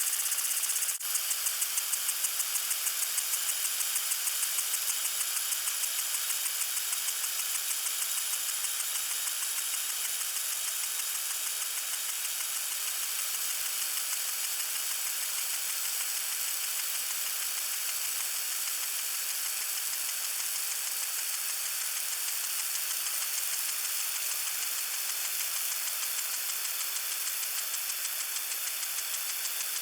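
Lawn sprinkler spraying water: a steady high hiss with a fast, even ticking rhythm running through it, and a brief break about a second in.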